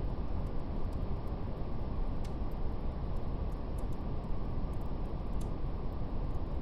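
Steady brown noise, a deep even rush weighted to the low end, with faint scattered crackles of a fire, two of them a little sharper, about two and five seconds in.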